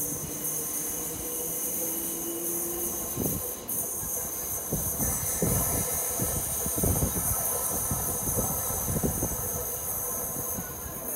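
Electric passenger train moving through the station at low speed. Its wheels knock irregularly over the rails from about three seconds in, under a steady high whine.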